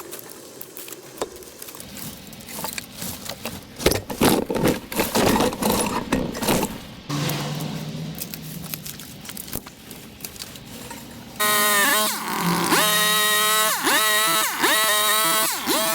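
Scraping and knocking of a scraper on a water-fed pole working moss away from around a roof window, loudest about four to seven seconds in. From about eleven seconds a louder pitched sound takes over, rising and falling four or five times.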